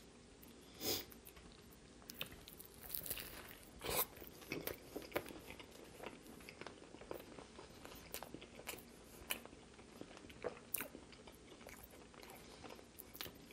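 Close-miked chewing of a mouthful of BBQ chicken sub with ranch: soft, wet chewing broken by scattered crunches and sharp mouth clicks, the loudest about a second in and about four seconds in.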